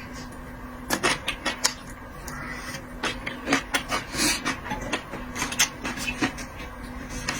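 Close-miked eating sounds: irregular clicks, crackles and smacks of chewing, with a faint steady hum underneath.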